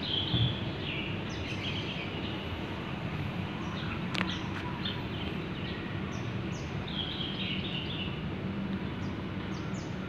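Outdoor ambience: small birds chirping on and off over steady low background noise, with one sharp click about four seconds in.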